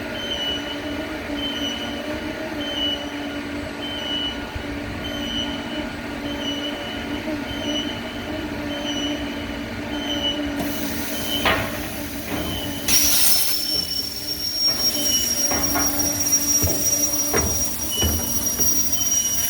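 CNC plasma cutter starting a cut: the machine hums while short high beeps repeat about every half second. A click comes about 11 seconds in, and about 13 seconds in the plasma arc strikes with a loud hiss and a steady high whine as the torch cuts. The torch is running an oversized 200 amp nozzle on 8 mm plate.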